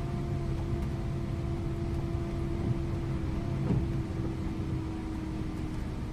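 Scania InterLink bus driving at steady speed, heard from the driver's seat: low engine and road rumble with a steady drivetrain whine, and a brief knock just before four seconds in.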